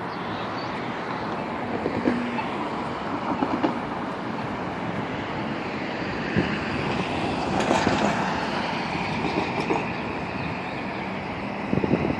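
A passing train rumbling along the bridge, swelling to its loudest about eight seconds in, with scattered clicks.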